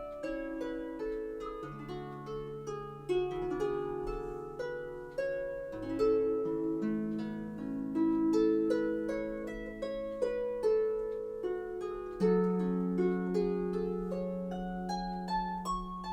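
Background solo harp music: plucked notes and chords over sustained bass notes.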